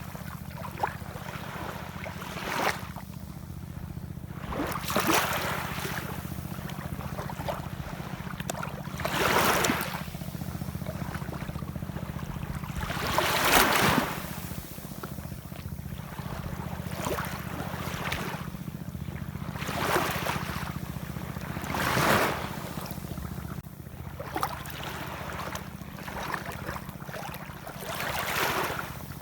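Ocean waves surging and washing in, one rush every few seconds, over a steady low rumble.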